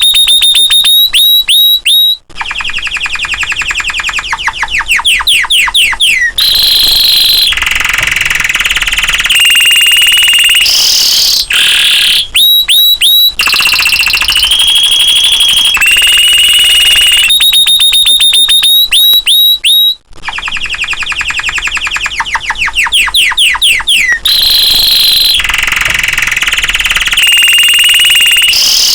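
Domestic canary singing loudly: fast trills, rolling chirp series and long held high whistles. The same song passage repeats about every 18 seconds, as in a looped recording.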